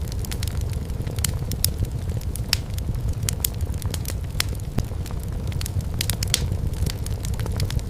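Wood fire burning in a fireplace: a steady low rumble of the flames with frequent sharp, irregular crackles and pops from the firewood.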